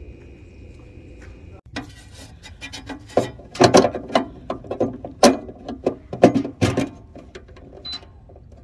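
An irregular run of sharp knocks and clacks of hard objects, starting after a brief cut about two seconds in and loudest in the middle.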